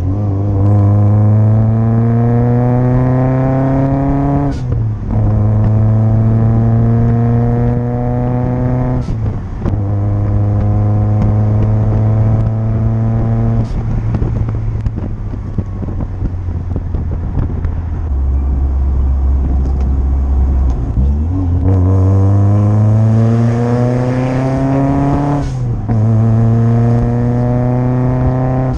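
Supercharged 1.6-litre four-cylinder engine of a Mazda Miata (MX-5), heard from the open cabin, pulling hard through the gears: the revs climb steadily and drop at each shift, about 4.5 and 9 seconds in. Each shift comes with a brief sharp puff from the blow-off valve. After a stretch of steady cruising and a lower drone, the engine pulls hard again for about four seconds before another shift.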